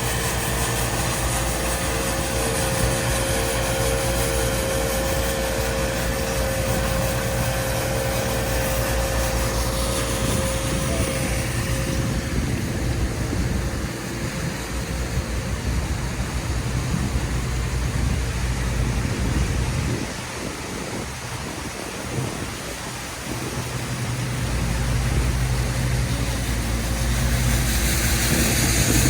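City street traffic: vehicle engines running steadily with a low rumble, easing off for a few seconds and then growing louder near the end.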